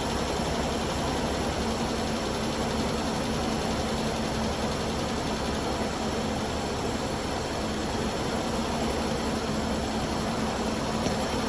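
1993 Ford Ranger engine idling steadily just after being started up again, with an even, unchanging hum.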